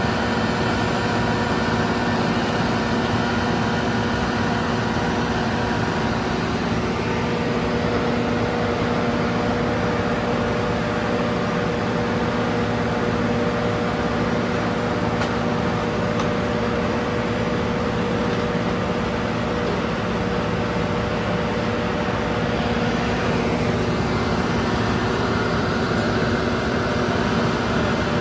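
Cat asphalt paver's diesel engine and machinery running steadily, heard from aboard the machine: a constant drone with a few held steady tones.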